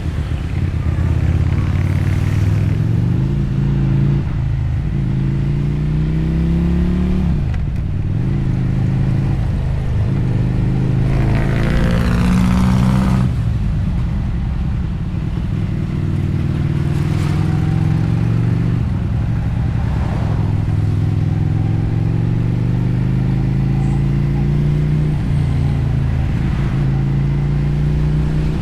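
Motorcycle engine pulling through the gears on a ride, its pitch climbing and then dropping back at each shift, several times over. About twelve seconds in there is a louder rushing stretch with a rising whine.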